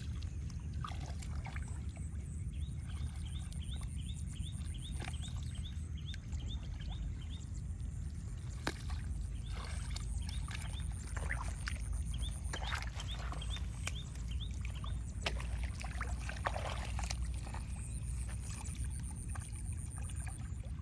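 Water sloshing and splashing with scattered sudden knocks over a steady low rumble. A quick repeated chirp runs for a few seconds early in the stretch.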